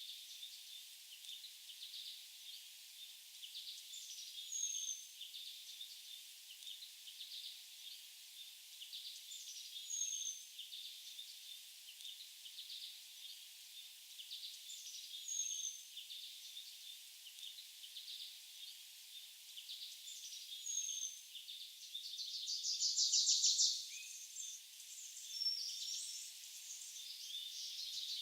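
Forest birds singing and chirping, with a short high whistled phrase that repeats about every five seconds. A louder buzzy trill stands out about four-fifths of the way through.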